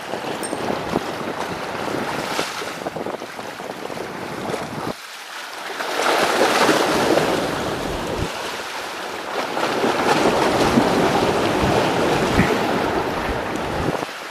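Strong wind rushing over the microphone with surf washing behind it, dipping briefly about five seconds in and then swelling louder twice.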